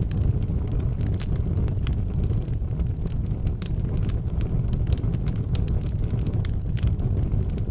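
Wood fire in an outdoor fireplace burning, with frequent sharp crackles and pops over a steady low rumble.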